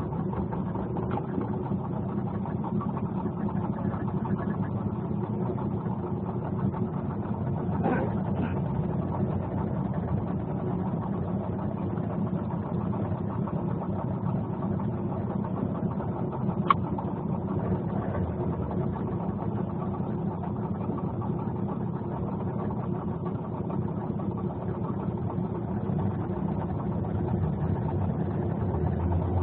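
An engine idling steadily, with a single sharp click about seventeen seconds in.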